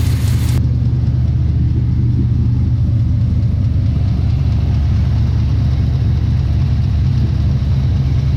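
Small-block Chevy V8 in a Camaro, fuel-injected with a Holley Sniper, idling steadily. It has a slight tick that the owner takes for a knock from a bad rod bearing.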